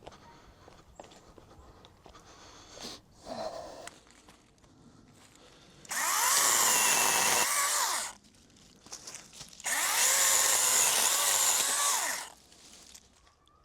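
Electric power tool run in two bursts of about two seconds each, its motor whine rising as it starts and falling as it stops.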